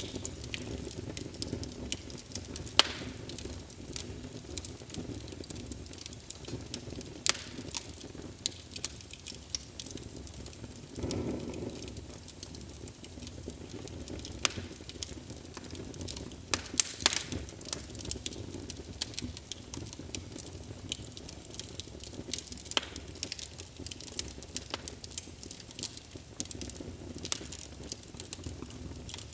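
Wood fire in a fireplace crackling, with sharp pops at irregular intervals over a steady low rumble of the flames; a brief louder rush of flame comes about eleven seconds in.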